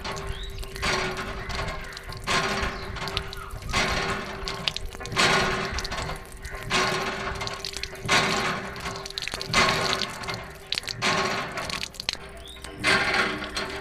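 Water pouring in repeated surges, about one every second and a half, over a steady faint hum.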